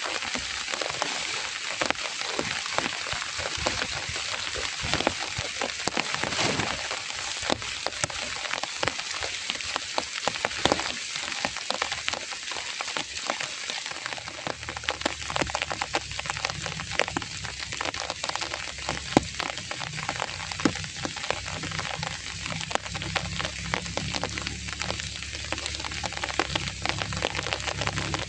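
Heavy rain falling steadily, with many sharp separate drop hits. A low rumble comes in about halfway through and carries on underneath the rain.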